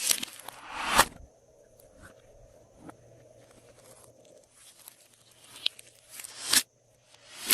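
Glossy slime being squished and stretched by hand, giving sticky crackling, tearing sounds. They come in loud bursts about a second in and again near the end, with a quieter stretch of small clicks between.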